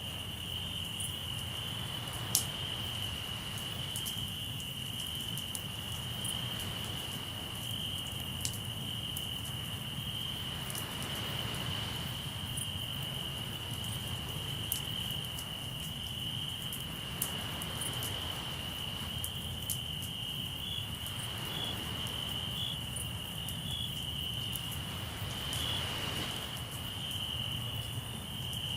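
Crickets trilling steadily over a crackling campfire, with scattered sharp pops, the loudest about two seconds in. Under them a soft wash of sea waves swells and fades every few seconds.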